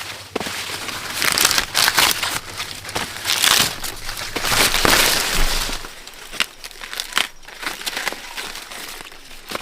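Dry corn leaves and husks rustling and crackling in irregular bursts as the plants are handled. The sound is densest for about the first six seconds, then thins to scattered crackles.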